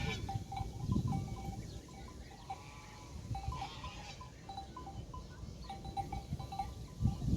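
Pastoral soundscape of a grazing flock with a single bleat, over a low rumble. Short ringing notes repeat at two pitches throughout, with a few high chirps near the start and about four seconds in.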